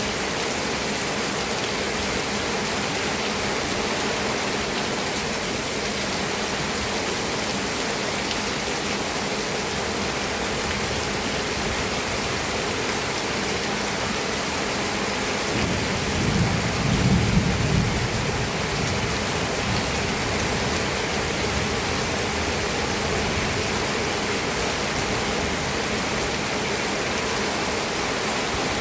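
Steady rain falling. About halfway through, a low rumble rises and fades over some three seconds.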